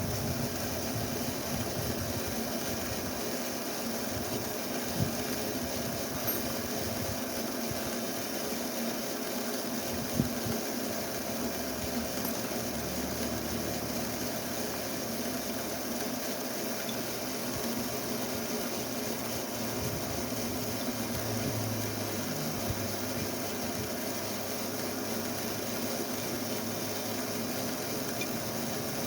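Steady mechanical hum at an even level, with a few light clicks.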